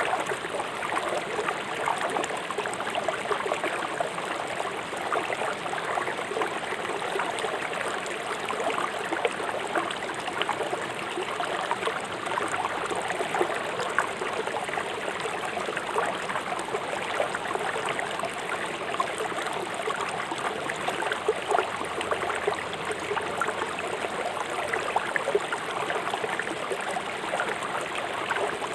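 Fast-flowing river water rushing and splashing over stones, a steady babbling roar with small splashes throughout.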